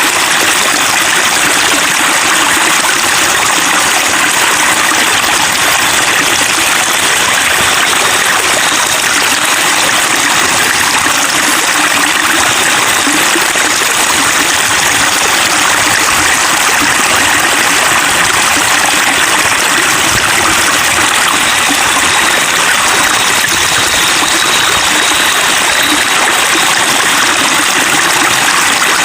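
Water running and trickling over stones in a steady stream, a continuous splashing babble.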